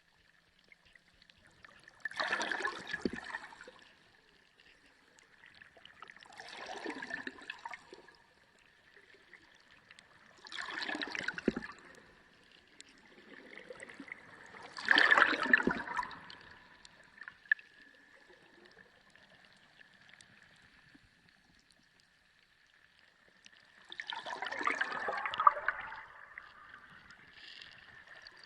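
Sea water sloshing and gurgling in about five surges a few seconds apart, like waves washing in and draining away, the strongest about halfway through and a longer lull before the last. A faint steady high tone runs underneath.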